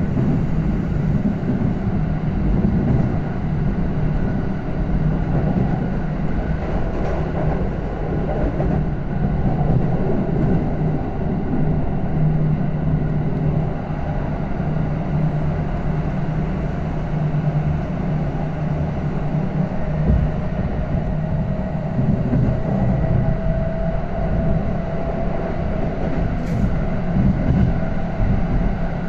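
Running noise of a Kintetsu electric train with GTO-thyristor VVVF inverter traction control: a steady rumble of wheels on rail and motor hum, with a faint tone that rises slightly over the last several seconds.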